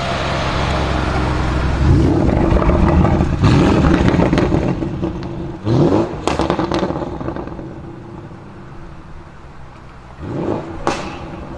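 Audi RS Q8's twin-turbo V8, tuned to about 840 hp, running loud for the first few seconds, then revved twice with a rising pitch, about six seconds in and near the end. Sharp exhaust crackles follow each rev.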